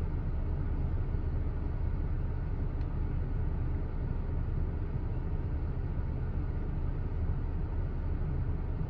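A vehicle's engine running at a standstill, heard from inside the cab as a steady low rumble.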